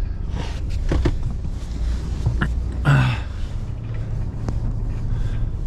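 Vehicle running with a steady low rumble, with scattered knocks and rattles. A brief voice sound comes about three seconds in.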